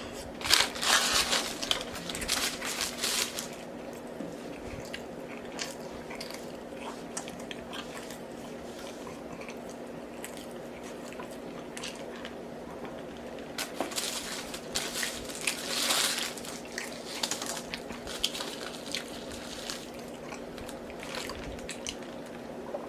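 A person chewing and biting McDonald's fast food (cheeseburger and fries) with wet, crunchy mouth sounds. The chewing comes in two louder spells, one just after the start and one about two-thirds through, over a steady low hum.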